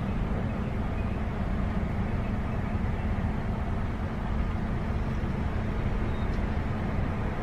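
Steady low hum and rumble of a car idling, heard from inside the cabin.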